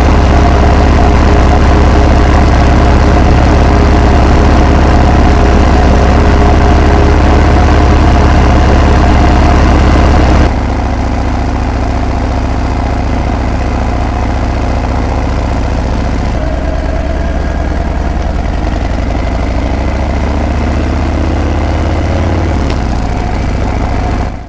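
Harley-Davidson Breakout's V-twin exhaust running steadily. About ten seconds in it cuts to a quieter take, and over the last several seconds the pitch slowly rises as the engine picks up speed, before fading out.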